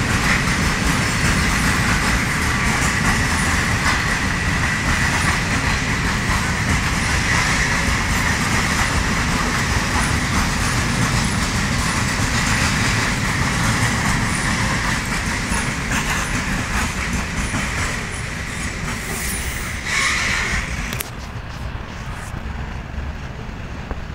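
Freight train of open wagons running past at close range, a steady heavy rolling noise with a continuous high wheel squeal. The noise eases off as the last wagons pass, about 21 seconds in.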